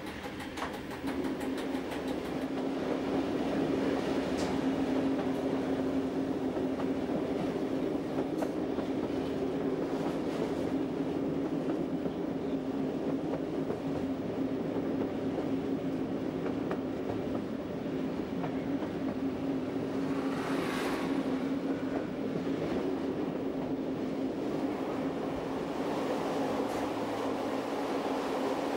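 Electric passenger train running along the track, a steady motor hum over the rumble of the wheels, with occasional clicks of the wheels over the rails. A short rush of hissing noise comes about two-thirds of the way through.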